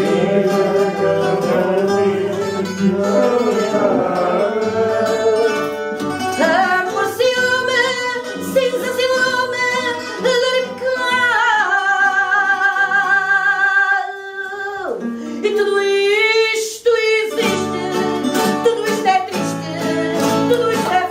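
Fado played on a Portuguese guitar and a viola de fado (classical guitar), plucked notes running throughout, with a woman's voice holding long notes with vibrato around the middle.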